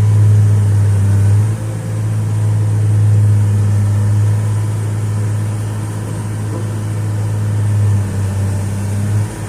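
Diesel engine of a 2003 Atlas 1805 wheeled excavator running steadily with a low hum, dipping slightly in level about a second and a half in.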